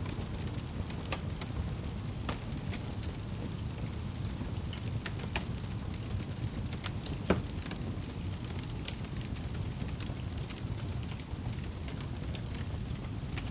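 Wood fire burning in a fireplace: a steady low rumble with scattered crackles and small pops, and one louder pop about seven seconds in.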